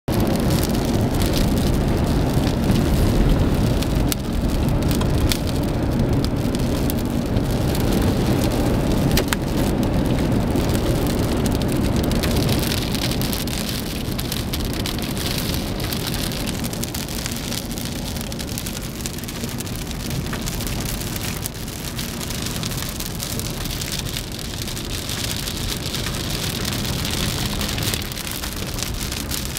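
Moderate to heavy rain falling steadily, with scattered sharp drop hits and a deep rumble underneath that is strongest in the first dozen seconds and then eases off.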